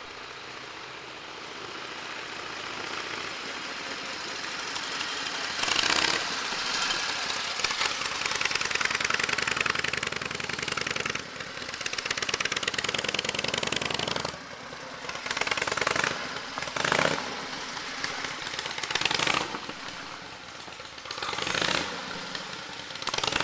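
1929 Harley-Davidson JDH two-cam's V-twin, freshly rebuilt and on its first run, running through a homemade stepped exhaust as the motorcycle comes closer and passes. The rapid firing grows louder over the first six seconds and stays strong until a drop about fourteen seconds in. After that the engine sound swells and falls several times.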